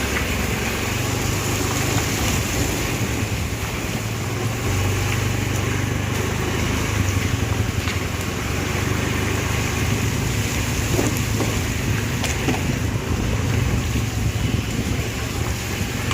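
Steady outdoor street noise with vehicle traffic, a continuous low rumble under a broad hiss.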